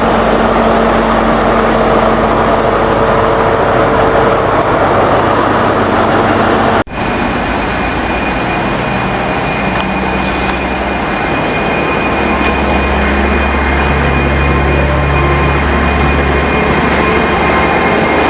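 Diesel train running at a station platform: a loud, steady engine drone with a hum. The sound breaks off for an instant about seven seconds in, and a deeper rumble swells up in the second half.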